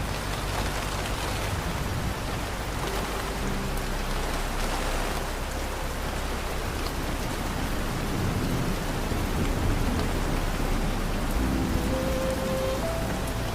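Steady rain falling on a surface, an even hiss of drops, with a few soft sustained music notes faintly underneath.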